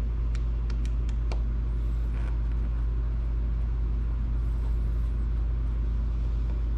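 Steady low background hum, with several light clicks in the first second and a half from small parts and a screwdriver being handled while the Switch's kickstand assembly is unscrewed.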